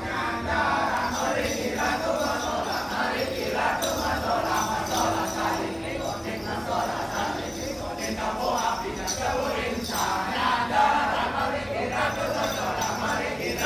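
A crowd of voices going together, like chanting, with a jingling of bells.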